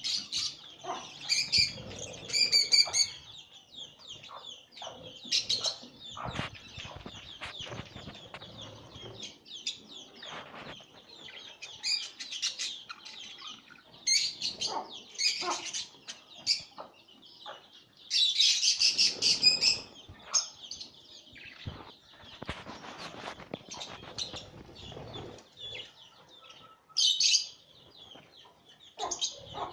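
Budgerigars chirping in many short, high, repeated calls, with several louder flurries of chatter, while the parents feed their chicks.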